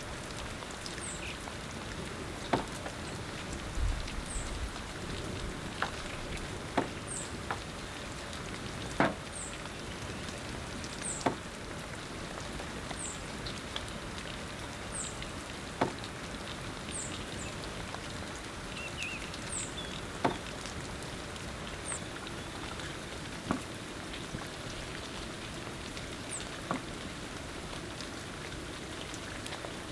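Rain with a steady hiss and single louder drips falling irregularly, about one every one to two seconds. A faint, short, high chirp repeats about as often.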